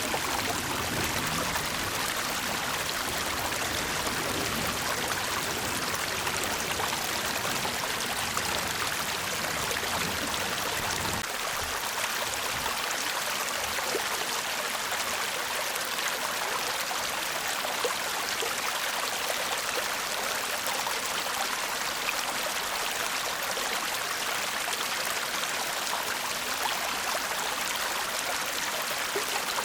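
Shallow brook babbling, a steady rushing and trickling of running water. A deeper undertone drops out about a third of the way in, leaving the lighter trickle.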